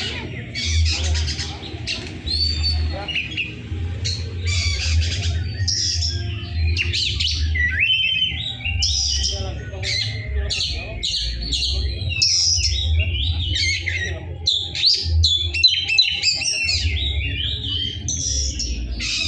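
Oriental magpie-robin (kacer) singing without a break: a fast, harsh run of chirps, squawks and quick rising and falling whistled notes. A low rumble runs underneath.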